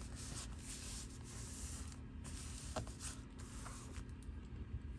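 Faint rustling and rubbing of paper being handled and pressed down by hand, with a light tap about three seconds in.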